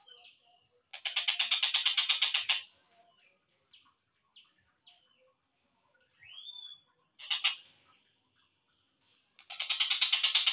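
Slowed-down recording of a tengkek buto kingfisher calling. About a second in comes a fast rattling series of harsh notes, roughly ten a second. Faint scattered chirps follow, then a single rising call, a short burst, and another long rattling series starting near the end.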